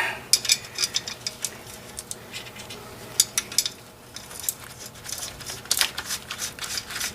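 Irregular light metallic clinks and taps of steel parts being handled while new U-bolts are fitted over a truck's rear leaf spring.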